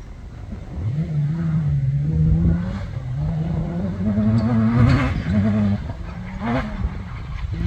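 Competition safari off-road racer's engine revving hard. Its pitch climbs, drops back and climbs again several times, with a brief sharp peak near the end.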